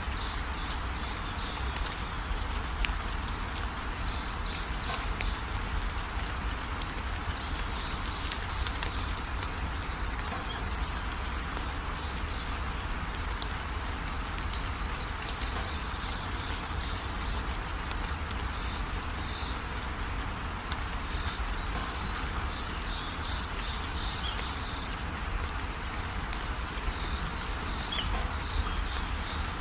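Steady rain hiss, with birds twittering in short high bouts every few seconds.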